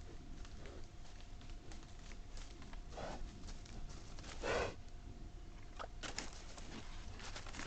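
Wild boar feeding: two short grunts about three and four and a half seconds in, the second louder, then a run of rustling and clicking near the end.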